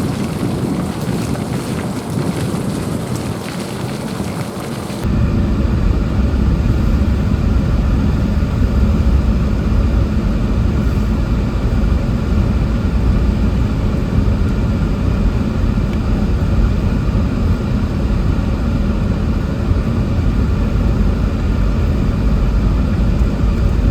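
Pickup truck driving slowly, heard from inside the cab: a steady low rumble of engine and road noise. For the first few seconds there is a rushing wind-like noise, which gives way abruptly about five seconds in to the deeper, steady in-cab rumble.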